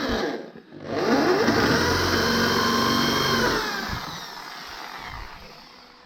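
Suzuki King Quad 750 ATV engine: its pitch falls, dips out briefly, then climbs and holds steady before fading away over the last couple of seconds.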